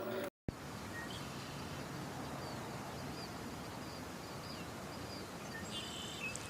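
Outdoor background noise with faint small bird chirps repeating high in pitch throughout.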